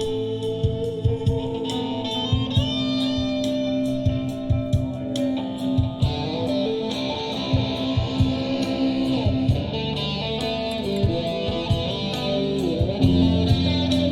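Live rock band playing, with an electric guitar soloing over bass and drums.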